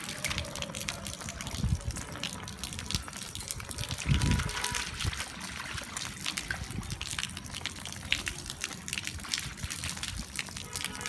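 Rain falling steadily, with many small drop impacts and splashes. Two dull thumps come about two and four seconds in.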